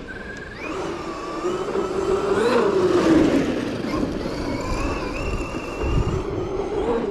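Traxxas XRT electric RC monster truck's brushless motor and drivetrain whining under throttle. The pitch rises to a peak about three seconds in, drops, then climbs again near the end.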